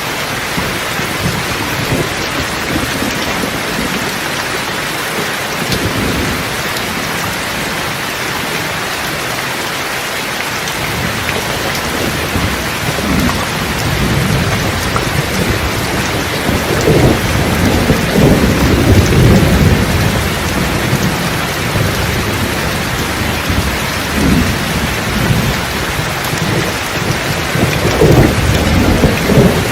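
Steady rain with rolling thunder: low rumbles swell in several times, strongest a little past the middle and again near the end.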